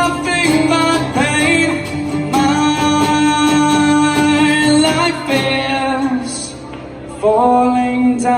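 Live unplugged rock song: long held sung notes over acoustic instruments. The sound eases off about six seconds in, and a new held note comes in strongly about a second later.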